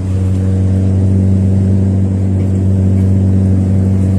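Car engine and road noise while driving: a steady, loud low drone with an even hum that does not change in pitch.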